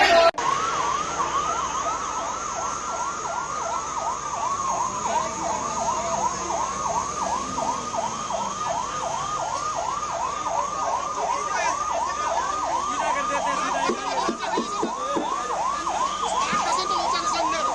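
Emergency vehicle siren in a fast yelp, its pitch sweeping up and down about three times a second. It cuts in abruptly just after the start.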